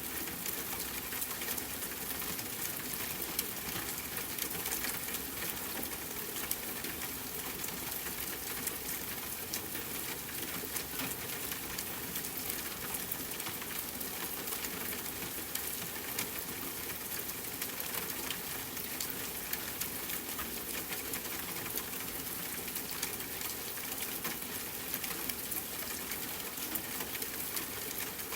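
Rain falling steadily on a tent, mixed with a crackling campfire: a constant hiss dotted with many small ticks and pops.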